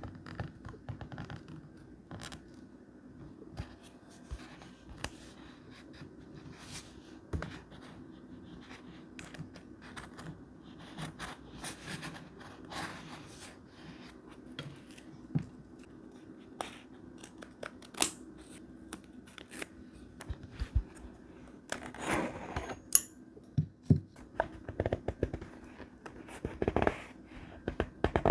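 Paper cut with scissors and handled for collage journaling: scattered crisp snips, rustles and small taps, busier in the last few seconds, over a faint steady hum.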